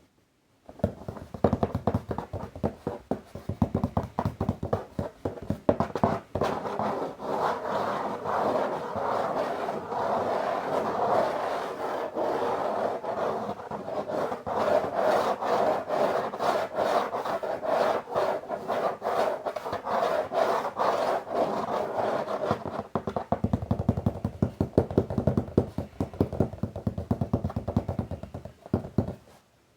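Close-up tapping and scratching on a box. It begins with rapid taps, turns to steady scratching for most of the time, then goes back to quick taps and stops near the end.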